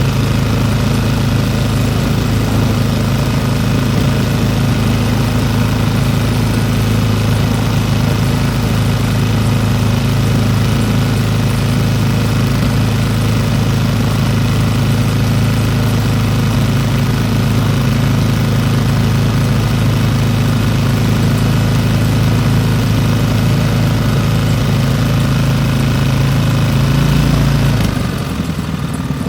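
Old single-cylinder Briggs & Stratton small engine running steadily at a fast speed, freshly revived after being thrown out for scrap. Near the end it drops to a slower speed.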